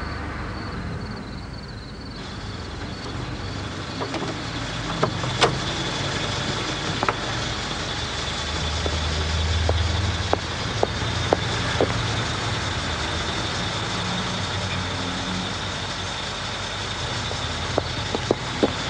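A car engine running low and steady, swelling for a couple of seconds about halfway through, with scattered short sharp clicks, most of them near the end.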